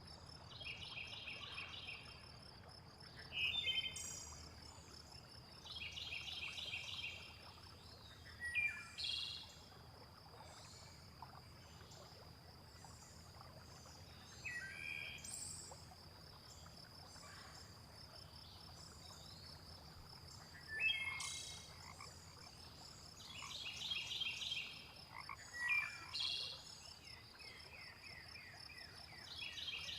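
Frogs calling in short rapid-pulsed croaking bouts about a second long every few seconds, over a steady high insect trill, with scattered quick bird chirps in between.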